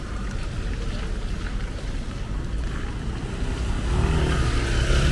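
Wet city street: rain noise and traffic rumble, with a vehicle growing louder as it passes about four seconds in.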